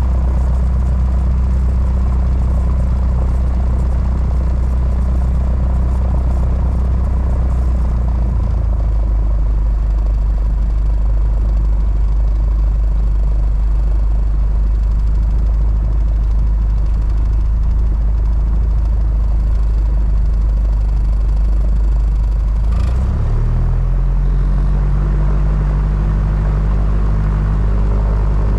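Mooney M20J's four-cylinder Lycoming engine and propeller running steadily, heard from the cockpit. After about eight seconds the engine note changes, and some six seconds before the end the engine speed steps up quickly.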